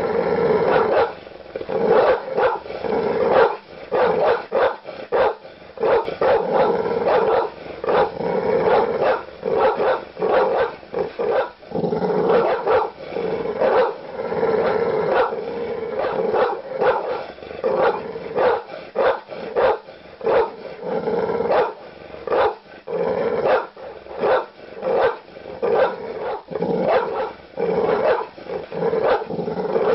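A large dog barking aggressively in rapid, repeated deep barks, with growling between runs of barks.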